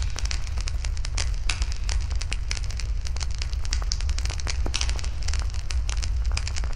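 Wood fire burning, crackling with frequent irregular sharp pops and snaps over a steady low rumble.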